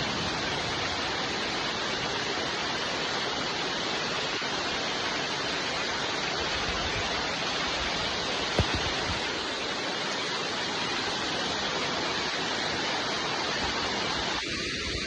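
Steady, even rain falling, with one sharp click a little past halfway through.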